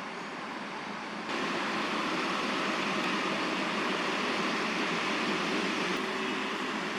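Steady hum of distant city traffic with no distinct events, which steps up abruptly about a second in and stays louder.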